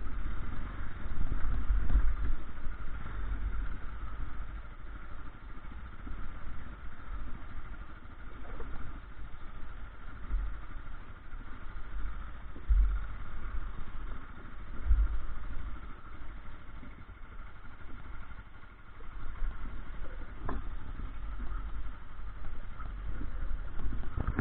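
A vehicle engine running, with a low rumble that rises and falls unevenly.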